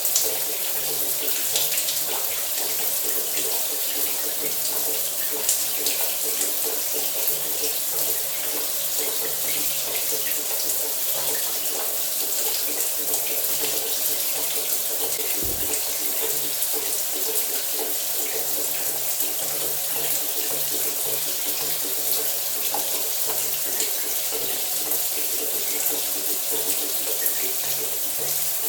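Shower running steadily, its spray pattering and splashing down. There is a single soft thud about fifteen seconds in.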